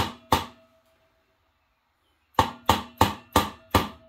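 Hammer blows on metal: two strikes, a pause of about two seconds, then a run of five strikes about three a second. Each blow leaves a brief metallic ring.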